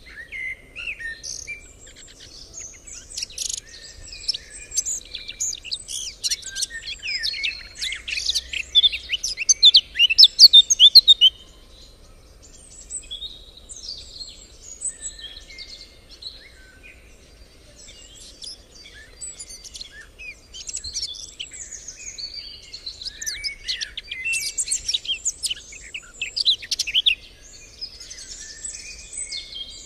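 Several songbirds singing and chirping together, with quick overlapping trills and chirps; the singing is loudest and densest for a few seconds about a third of the way in, then drops off suddenly and carries on more sparsely.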